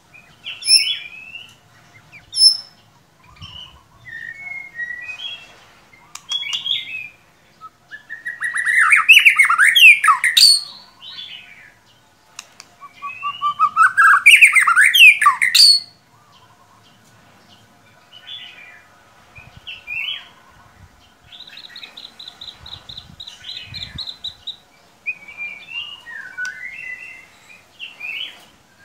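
White-rumped shama (murai batu) singing a varied song of short whistled notes and chips, with two long, loud runs of rapid sweeping notes about 8 and 13 seconds in, and a buzzy run of fast repeated notes a little past 21 seconds. It is a lure recording of shama song used to stir a caged shama into singing.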